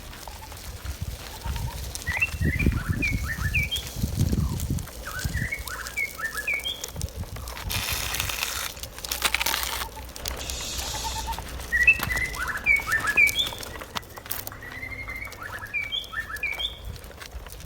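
Small birds chirping in four quick bursts of short high chirps, with a low rumble under the first bursts and a brief rushing hiss in between.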